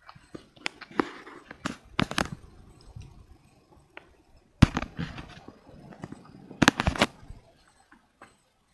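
An irregular series of sharp cracks and pops, the loudest about four and a half and seven seconds in.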